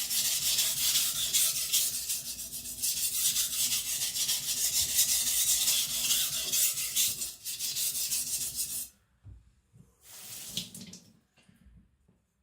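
Hard AEB-L steel knife blade (about HRC 66) being ground on a whetstone in steady back-and-forth strokes while thinning its tip. The grinding stops about nine seconds in, with one more brief rub a second later.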